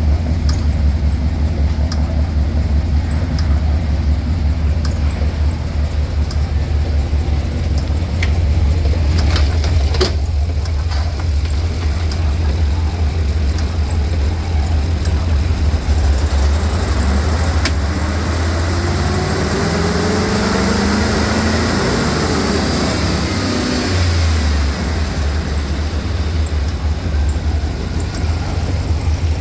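GM 4.8-litre V8 engine running at a steady idle, revved up once about two-thirds of the way through and then easing back down to idle.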